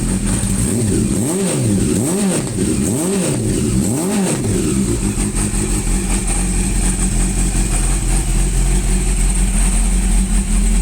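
Honda CB400 Super Four's inline-four engine at idle, revved four times in quick succession from about a second in, each rev rising and falling back, then settling to a steady idle.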